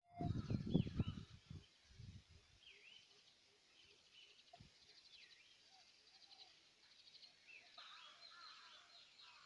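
Birds calling: repeated swooping chirps and quick high trills. Loud low rumbling thumps in the first two seconds.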